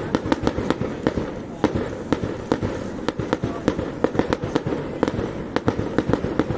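Fireworks display: rapid, irregular sharp bangs and crackles of aerial shells bursting, several a second, over a continuous low rumble of explosions.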